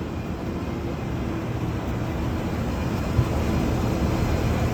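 Steady drone of running machinery with a constant hum and a low rumble, with one short sharp knock about three seconds in.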